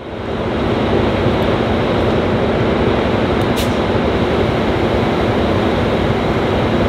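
Diesel locomotive of a passenger train running: a loud, steady rumble with a constant low hum.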